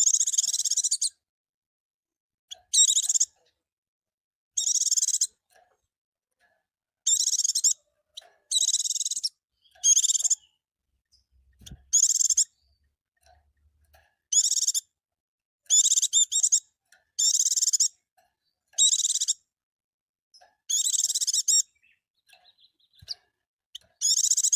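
Pleci (white-eye) singing: about thirteen short, high song phrases, each under a second long, come every one and a half to two seconds with silence between them.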